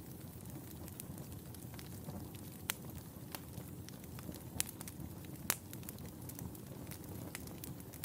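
Wood fire in a fireplace crackling: a steady low rumble of burning with irregular sharp pops, a few louder ones in the middle seconds.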